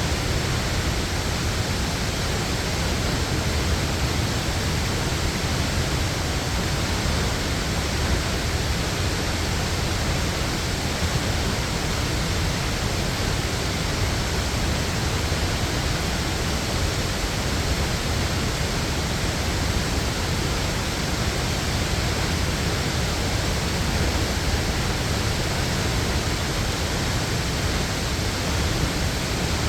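Waterfall: the steady, unbroken sound of falling water.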